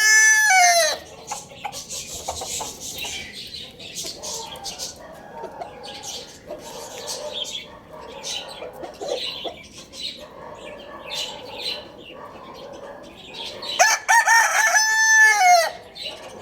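A rooster crowing twice: one crow ending about a second in, another near the end. Between the crows, chickens clucking with scattered short chirps.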